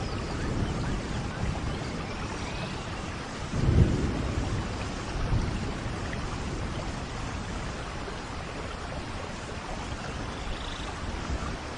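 Steady rain falling in a forest, with a low thunder rumble swelling a little under four seconds in and a fainter one soon after.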